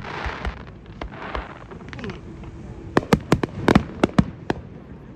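Fireworks going off: a hissing, crackling spell in the first two seconds, then from about three seconds in a rapid string of sharp bangs, roughly a dozen in under two seconds.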